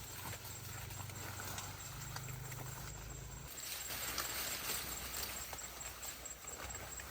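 Scattered light knocks and clicks at an irregular pace over a low steady hum.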